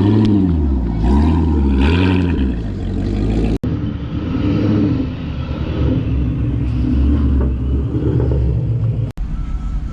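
Car engine revved three times in quick succession, its pitch rising and falling each time, then running at a deep, steady idle with a few lighter revs.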